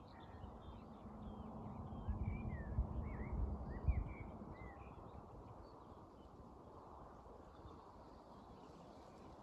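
Small birds chirping: a string of short, quick up-and-down calls in the first half, fading out after about five seconds, over a steady low rumble of outdoor noise.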